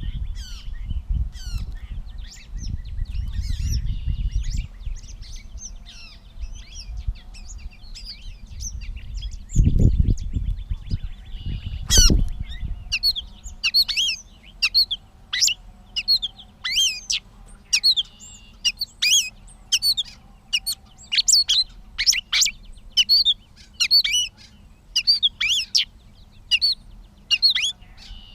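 Gray catbird singing: a long jumbled run of short, varied chirps and squeaky notes, sparse at first and coming thick and fast from about halfway through. A low rumble sits under the first few seconds and again briefly before a sharp click near the middle.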